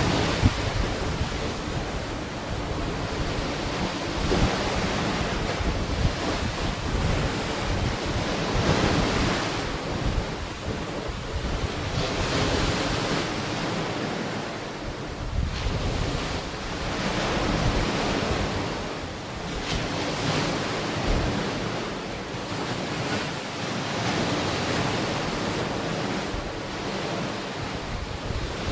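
Sea waves washing onto the shore, the surf swelling and easing every few seconds, with wind buffeting the microphone in low rumbles.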